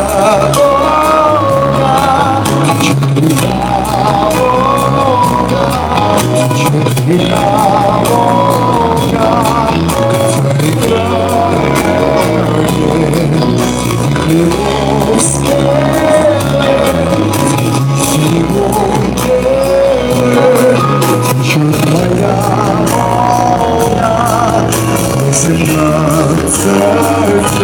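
A live ensemble playing a slow song with a sung melody over a steady beat and bass line.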